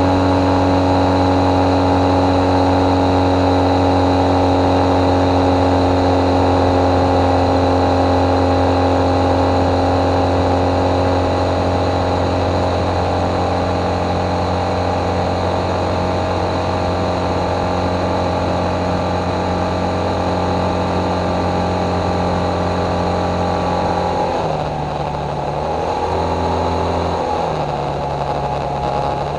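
Motorcycle engine running at a steady cruising speed, with wind and road noise. About three-quarters of the way through, the engine pitch drops and shifts in a few steps as the bike slows into a bend.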